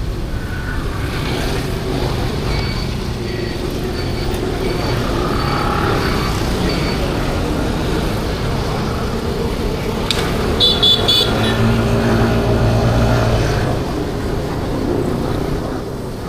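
City motorbike traffic heard from a moving 50cc Kymco Like scooter: a steady rumble of engines and road noise, with a few short horn toots about ten to eleven seconds in and a louder engine passing close just after.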